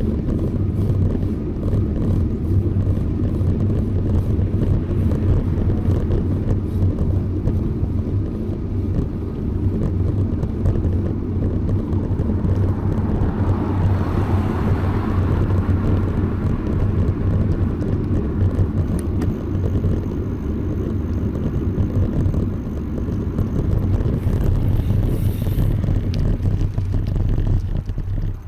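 Steady low rumble of wind and road noise while riding a bicycle, with a sound that swells and fades around the middle.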